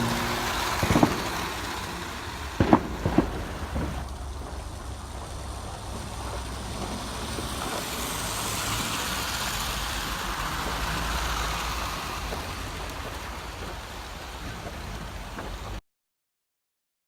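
Hornby OO gauge model electric locomotive running along outdoor garden-railway track: a steady rushing rumble of wheels and motor, with a few sharp clicks about one to three seconds in. The sound cuts off abruptly near the end.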